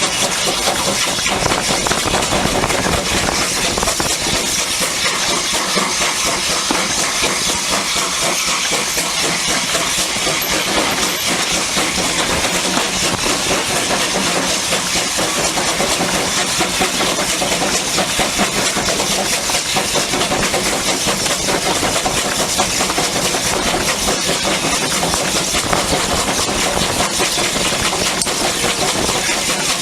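Steam locomotive working steadily, with a continuous hiss of steam and exhaust at an even loudness throughout.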